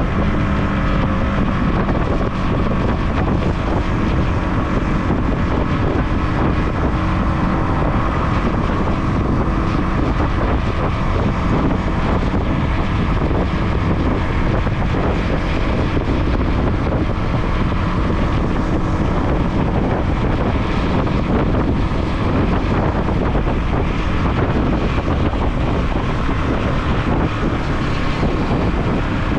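Motorcycle engine running while riding, under heavy wind buffeting on the action camera's microphone; the engine note drops right at the start, then holds steady.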